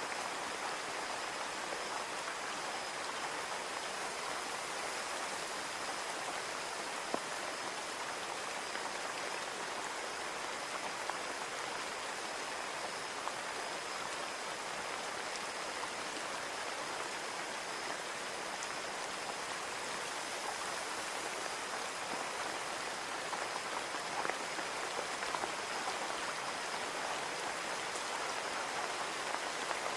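Steady rain on a window, an even hiss with a few single drops ticking out of it.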